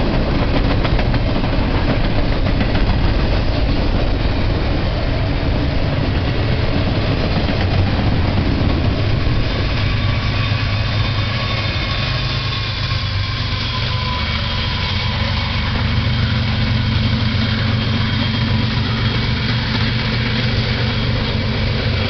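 Double-stack freight train's container cars rolling past with steady wheel clatter, then the rear distributed-power diesel-electric locomotives pass under power. They give a heavy engine drone and a high whine that drops slightly in pitch as they move away.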